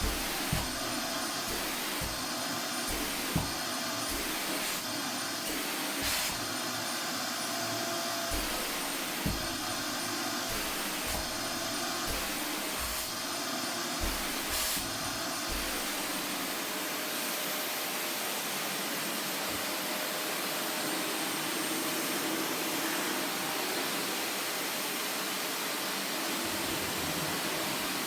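Vacuum cleaner running steadily with a faint high whine. Irregular low knocks and bumps come through the first half, then the sound runs on smoothly.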